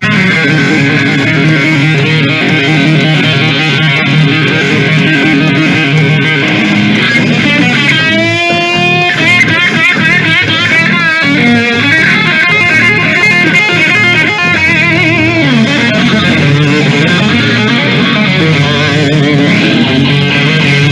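Hard rock played on electric guitar and bass guitar, loud and steady, with a lead guitar line bending and wavering in pitch about eight seconds in.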